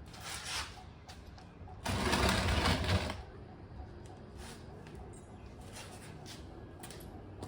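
Hand work on an ATV's rear axle and hub: scattered light metal clicks, with a loud rapid mechanical rattle about two seconds in that lasts just over a second.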